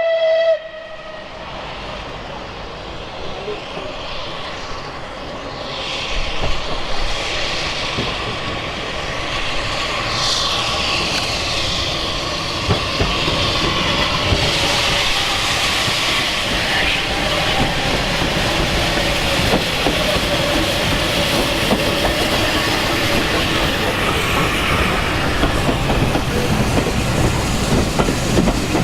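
Steam locomotive whistle cutting off about half a second in, then a steam train running past with its wheels clattering over the rail joints, louder from about six seconds in.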